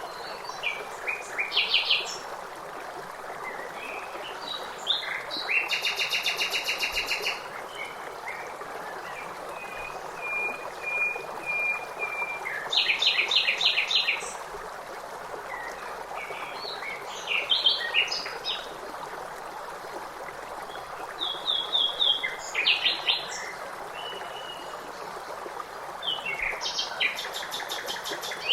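Songbirds singing in short phrases and fast trills every few seconds over a steady rush of flowing water.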